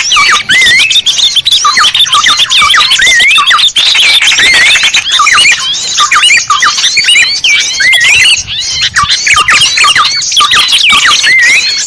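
Dense chorus of small songbirds calling at once: rapid, overlapping high chirps and squeaky rising and falling notes with no break. This is a recorded bird-lure call played to attract small birds.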